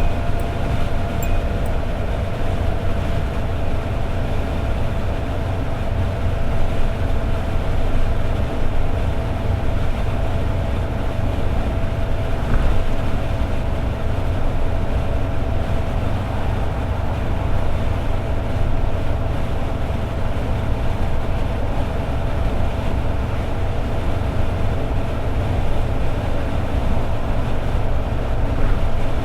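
Toyota AE86 Sprinter Trueno's 4A-GE four-cylinder engine running at a steady highway cruise, with a constant low drone, tyre and road noise, and a thin steady hum held all the way through.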